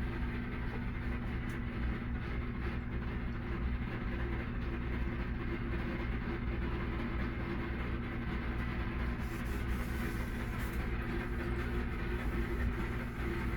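Microwave oven running with a steady, unbroken hum.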